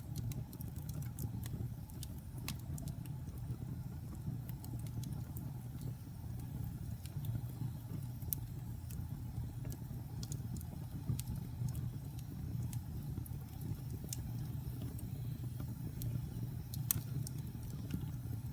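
Wood fire in a fireplace crackling, with irregular sharp pops and clicks over a steady low rumble. The loudest pop comes near the end.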